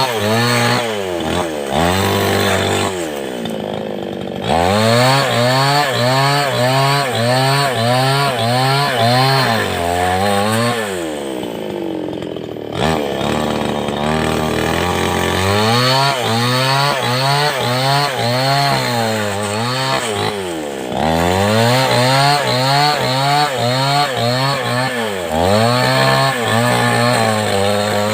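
A large two-stroke Stihl 070-type chainsaw cutting lengthwise through a log. Its engine pitch rises and falls about once a second as the bar works through the cut. Twice, a few seconds in and near the middle, it eases off and the pitch sinks before it is pushed back into the cut.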